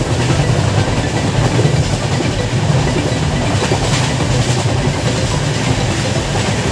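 Yesvantpur–Howrah express train running along the track, heard from on board: a steady rumble of wheels and coach with a few faint clacks from the rails.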